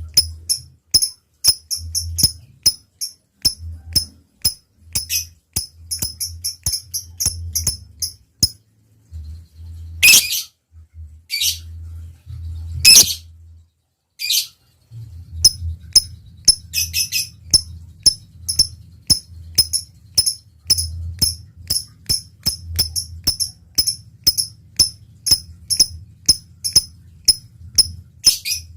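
Lovebird calling: a fast run of short, sharp, high chips, a few to the second, the clicking 'ngetik' call. Around the middle the chips give way to four louder, longer shrieks, then the chip run resumes.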